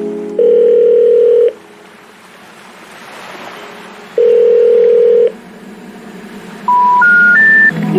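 Telephone call tones: a steady ringback tone sounds twice, about a second each with a few seconds' gap, over a faint hiss. Near the end, three short tones step up in pitch, the special information tone that comes before a recorded "number unavailable" message.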